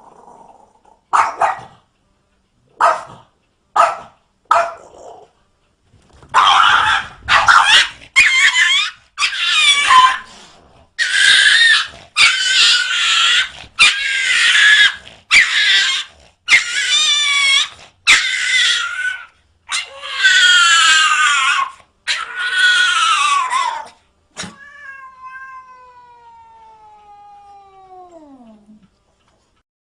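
Cats yowling and caterwauling: a long run of loud, drawn-out cries with wavering pitch, one after another, after a few short sounds at the start. Near the end a quieter long tone slides down in pitch.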